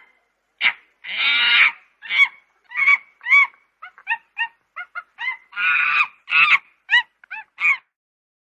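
Goose honking: a rapid series of about fifteen short honks, two of them longer and drawn out, ending abruptly about three-quarters of a second before the end, as a sound effect clip on dead silence.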